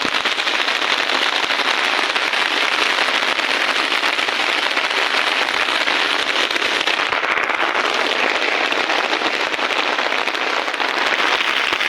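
Heavy rain falling steadily, drumming on an open umbrella held close: a dense, even hiss of countless drop impacts.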